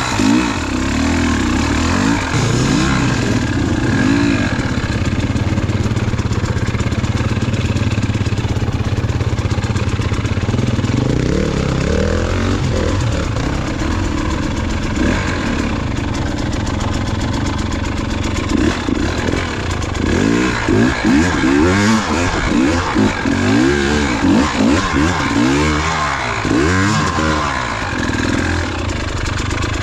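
KTM enduro dirt bike engine catching right at the start, then running at a fairly steady pitch. From about twenty seconds in, the throttle is blipped hard and repeatedly, so the revs rise and fall rapidly over rough trail.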